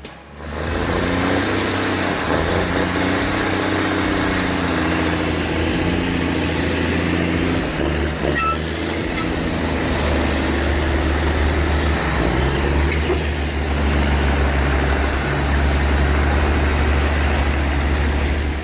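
Heavy truck's diesel engine running steadily under load, with a strong low drone.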